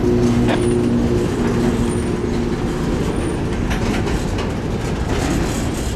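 Freight cars of a CSX mixed freight train rolling past: a steady rumble with wheel clatter, and a few steady tones that fade out about two and a half seconds in.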